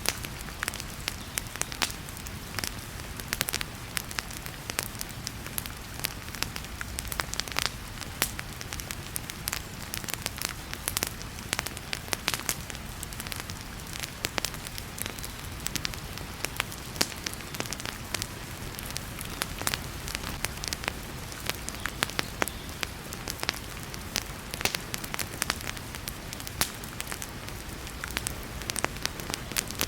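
Wood fire crackling in a fireplace, with frequent sharp pops and snaps over a steady hiss and a low rumble of heavy rain.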